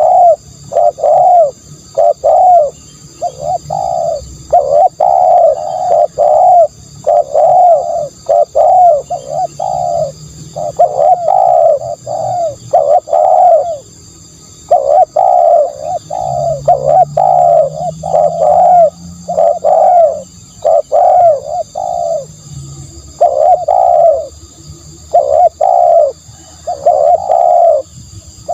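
Spotted dove cooing: loud, repeated phrases of three or four coos with short pauses between them.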